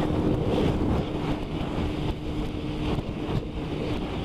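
Motorcycle running at motorway speed, heard from the rider's helmet: steady wind rush buffeting the microphone over an even engine drone with one steady tone.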